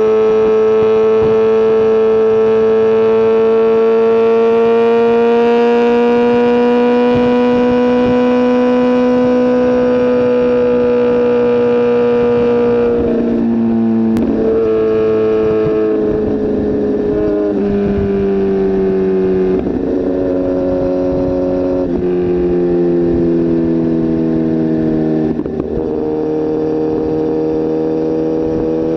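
Sport motorcycle engine heard from on the bike at highway speed, a loud, steady high-revving drone that rises slightly in pitch. From about halfway it breaks off briefly several times, and the pitch steps lower each time.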